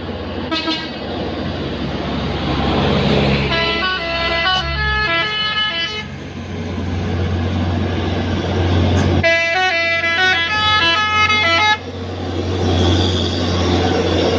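Truck's musical multi-tone horn playing a short stepping tune twice, about three and nine seconds in, the second time cut off sharply. Under it the truck's engine drones steadily with road noise.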